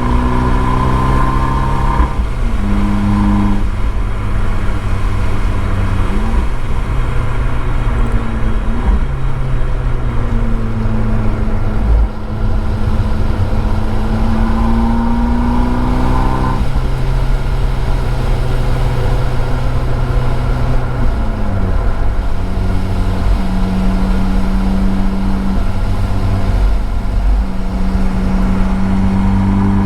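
Abarth 595 Esseesse's turbocharged 1.4-litre four-cylinder through an Akrapovič exhaust, driven hard on a race track. Its pitch climbs through the revs, drops at a gear change about two seconds in, climbs again for several seconds, cuts off sharply about halfway through as the throttle is lifted, and later holds steady.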